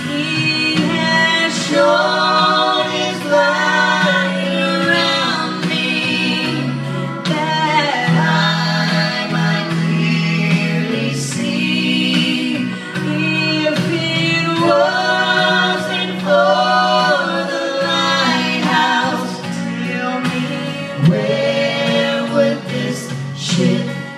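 A vocal trio singing a gospel song in close harmony over instrumental backing.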